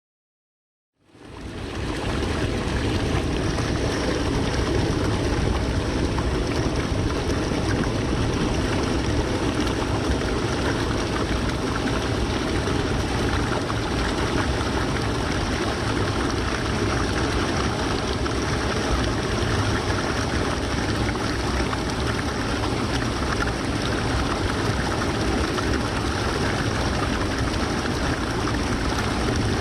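Waterfall: a steady, dense rush of falling water, fading in about a second in.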